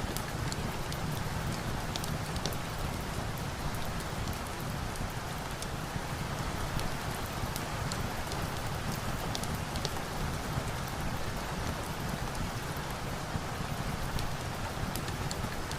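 Steady rain falling, an even hiss, with scattered sharp crackles from a log fire every second or so.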